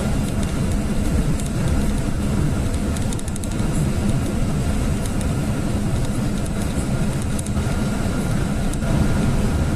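GAZelle light truck driving at steady speed: constant engine and road noise. The engine has lost compression in the second and third cylinders and runs somewhat better on new spark plugs.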